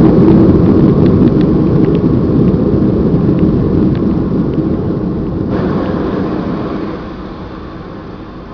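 Cabin roar of a Boeing 757 slowing on its landing rollout: the engine and runway noise is loud at first, then fades steadily as the jet decelerates.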